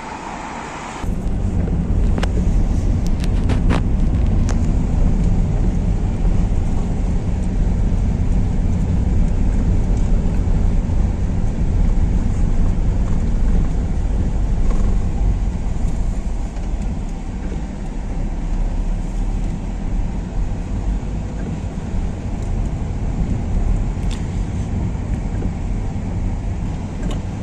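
Car on the move: a steady low rumble of engine and road noise that sets in abruptly about a second in, with a few sharp clicks soon after.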